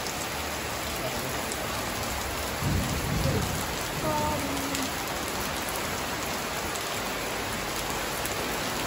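Heavy rain falling steadily, with a brief low rumble about three seconds in.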